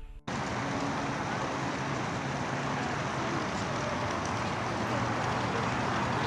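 Steady rushing background noise with a faint low hum, starting abruptly about a quarter second in.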